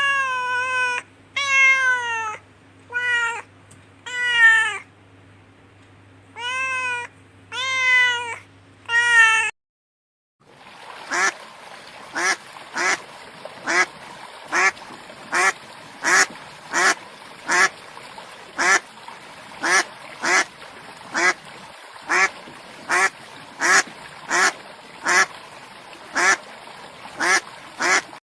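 A cat meowing about seven times, each meow rising and falling in pitch. After a short gap, a duck quacks about twenty times in a steady run, a little over one quack a second.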